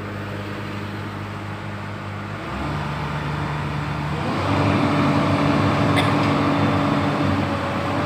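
Komatsu PC200-7 excavator's diesel engine running, then rising in engine speed in two steps, about two and a half and about four seconds in, getting louder each time. A single sharp click about six seconds in.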